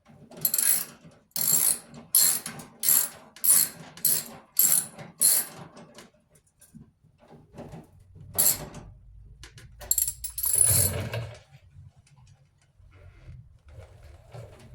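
Socket ratchet wrench being worked back and forth on a bolt: a run of about eight quick ratcheting strokes in the first five seconds, then two more strokes later, the last one longer.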